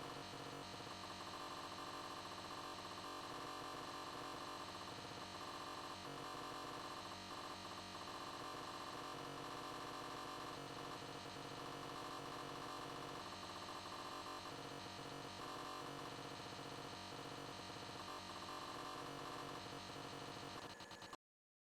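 Electric meat grinder / food processor motor running with a steady hum, cutting off abruptly near the end.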